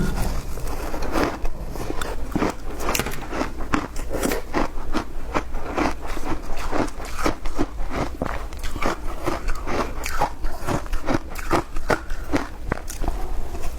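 Someone biting and chewing frozen matcha ice, a steady run of crisp crunches several times a second.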